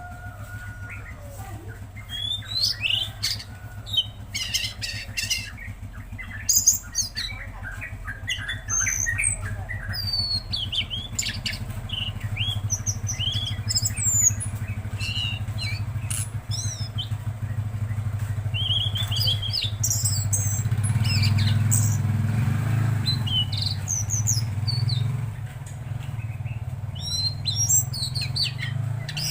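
A tledekan laut songbird singing a busy stream of short chirps and high whistled notes. Under it runs a steady low engine-like drone, which grows louder about two-thirds of the way through.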